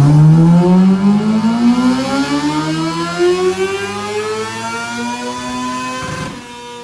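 Kawasaki ZX6R race bike's inline-four engine revving, its pitch climbing steadily for about six seconds as the revs build, then dropping off and holding steady near the end.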